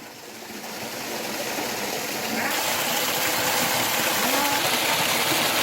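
Rushing water of a small waterfall, a steady hiss that grows louder over the first two or three seconds and then holds.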